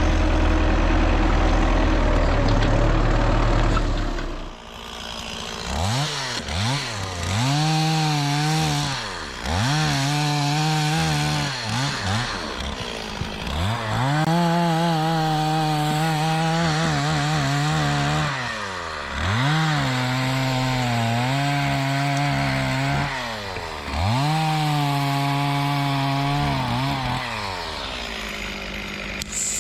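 A tractor's diesel engine runs steadily for about four seconds and then stops. After that a chainsaw is run up to full throttle about six times: each rev climbs steeply, holds for a few seconds and drops back toward idle.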